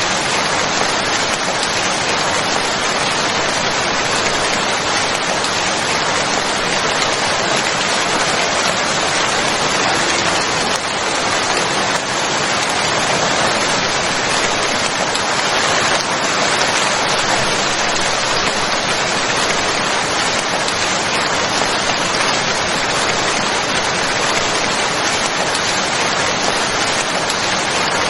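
Steady rain falling and pattering on a surface, an even hiss of drops.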